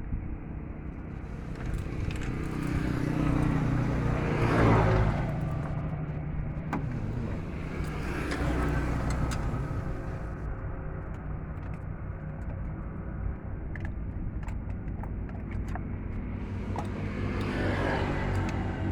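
Vehicles passing on a road, three times, each swelling and fading, over a steady engine hum, with scattered small metallic clicks.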